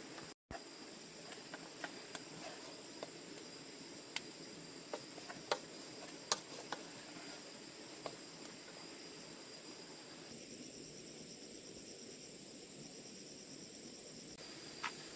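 Insects, crickets by their sound, trilling steadily in high, even tones, with a faster pulsing chirp joining for a few seconds near the end. Scattered sharp clicks or light knocks sound here and there over it.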